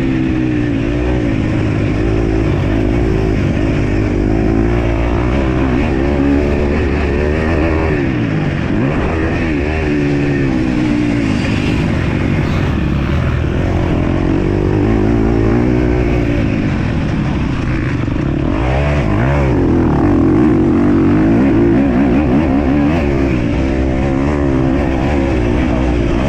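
Motocross bike engine ridden hard, its pitch climbing and dropping over and over with throttle and gear changes.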